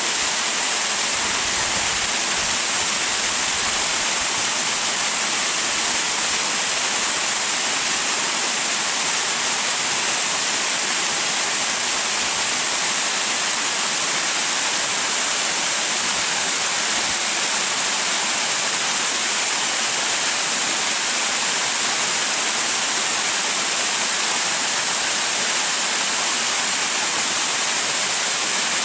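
Waterfall pouring into its plunge pool: a loud, steady rushing hiss that never changes.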